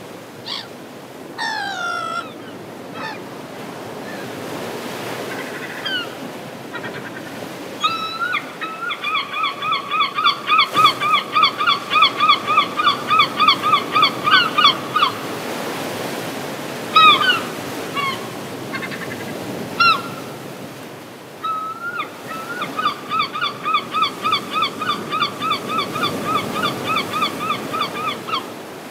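Birds calling over the steady wash of surf: scattered single calls, then two long runs of quick, evenly repeated calls at about four a second, one in the middle and one near the end.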